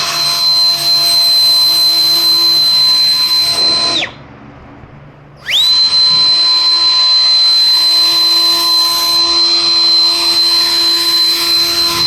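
Handheld electric power tool's motor running at a steady high-pitched whine, winding down and stopping about four seconds in, then spinning back up about a second and a half later and running on.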